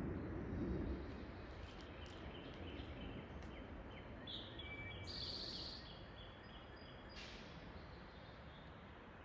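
Several birds chirping and singing over a steady low rumble of outdoor background noise, with a quick high trill about five seconds in.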